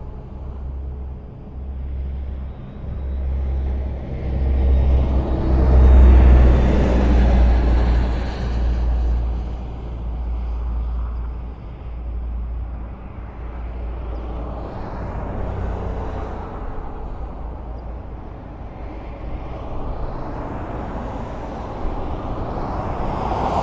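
Highway traffic: a continuous low rumble of cars and engines, with a vehicle passing close and loud about six seconds in and another drawing near at the end.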